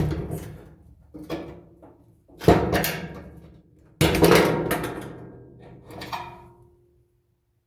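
Clanking knocks as a stuck drum support wheel is worked off its shaft inside a Kenmore dryer: a handful of sudden hits with rattling decays, the heaviest about two and a half and four seconds in, the last about six seconds in leaving a brief ringing tone.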